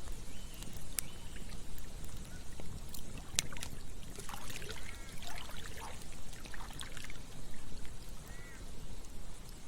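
Campfire crackling with sharp pops over the steady sound of running stream water, with a spell of gurgling a few seconds in.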